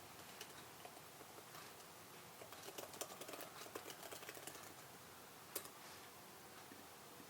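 Faint typing on a computer keyboard: a few scattered keystrokes, then a quick run of them in the middle, and one sharper click a little later.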